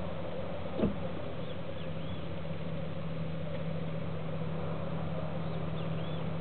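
Steady outdoor background hum with a few short, high chirps from small birds, in pairs at about one and a half seconds and again near the end. A single soft knock about a second in is the loudest sound.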